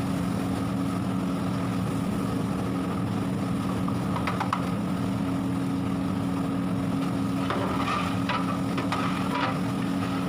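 A steady, low mechanical hum, with a few light clicks and taps about four seconds in and again near the end.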